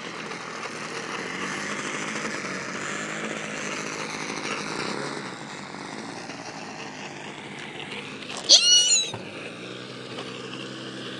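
OS 55 two-stroke glow engine of a model airplane idling steadily on the ground. About eight and a half seconds in, a short, loud, high-pitched animal cry.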